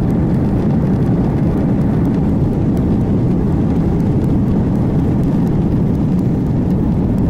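Loud, steady low rumble of a Boeing 737-800's jet engines, level throughout with no clear tones.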